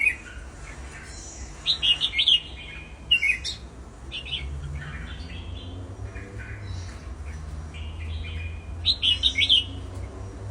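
Pet cage birds chirping in short clusters of sharp, high calls, with quieter spells in between, over a steady low hum.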